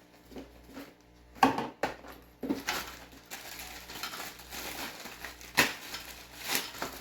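Hard plastic gravel-vacuum parts being handled and fitted together: a few sharp clicks and knocks, the loudest about a second and a half in and again near the end, with rustling in between.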